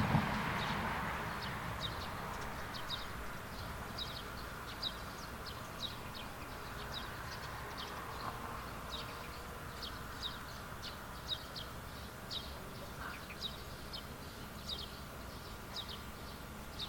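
A small bird chirping over and over in short, high, downward-sweeping notes, about two a second. A broad rushing noise fades away in the first two seconds.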